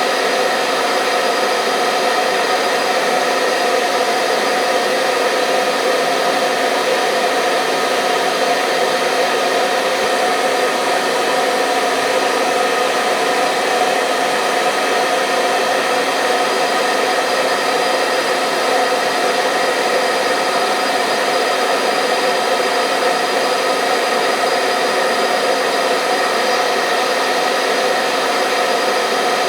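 Hair dryer running steadily: an even rush of blown air with a constant motor whine, unchanging throughout.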